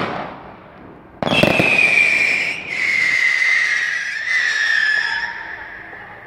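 A firework bang, then about a second later a whistling firework goes off with a sudden burst and a long, loud whistle that slowly falls in pitch for about four seconds before fading.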